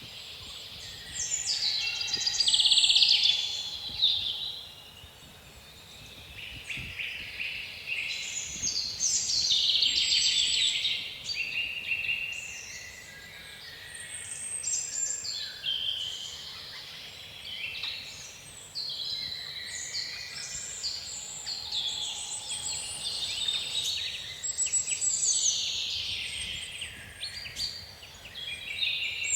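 Several songbirds singing at once, a continuous chorus of overlapping high chirps and trills that swells and fades, over a faint low wind noise.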